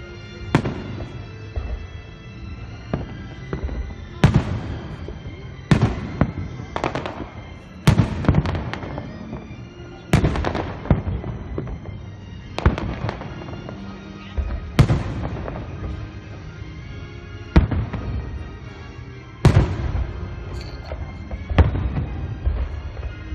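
Aerial fireworks shells bursting in a running series, a sharp bang every second or two, some followed by crackling. Music plays underneath.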